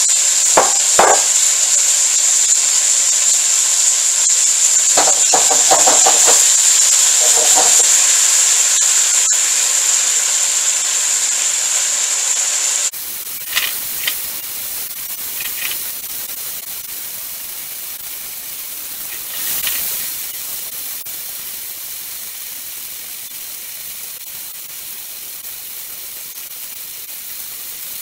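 Salmon cubes in a honey-soy marinade sizzling in hot oil in a wok as they sear, with a few clinks and scrapes of metal tongs against the wok as the pieces are turned. About 13 seconds in the sizzle drops suddenly quieter and carries on more softly.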